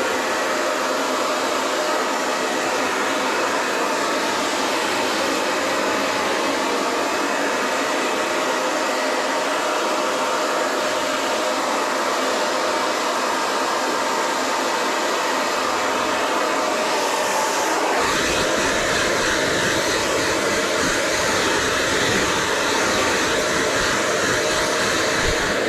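Hand-held hair dryer blowing steadily, an even rushing hiss. About eighteen seconds in a deeper low rumble joins the sound and stays.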